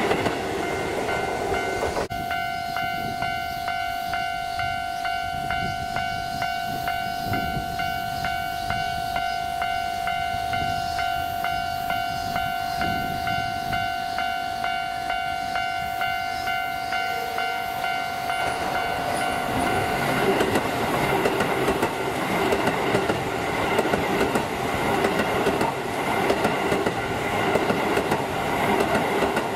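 A Keisei 3000-series electric train approaches and passes close by, its wheels clattering over the rail joints and the noise building from about two-thirds of the way in. Before that, a level-crossing warning bell rings steadily with an even pulsing beat. During the first two seconds the tail of another train rolls past before a cut.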